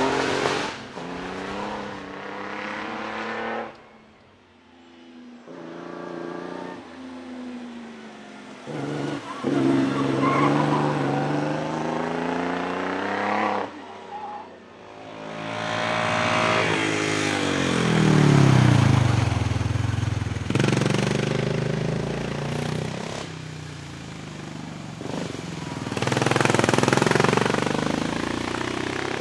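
Vintage racing car engines accelerating hard and revving through the gears, in several separate passes. About two thirds of the way through, one car goes by close and loud, its engine note dropping in pitch as it passes.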